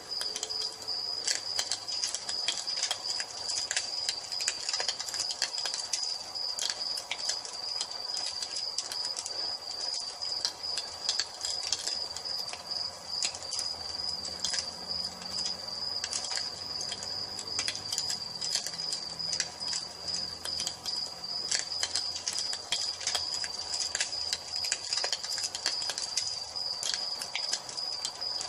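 Wood fire crackling with frequent irregular sharp pops, over a steady high-pitched trill of crickets.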